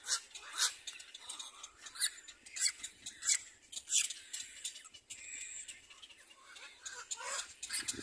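Birds calling with short, sharp, high-pitched chirps at irregular intervals, roughly one every half second to second, with a brief thin whistle about five seconds in.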